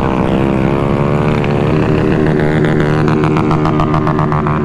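Small single-cylinder mini bike engine running at a steady speed while riding alongside, its pitch wavering slightly, with a rapid pulsing beat in the second half.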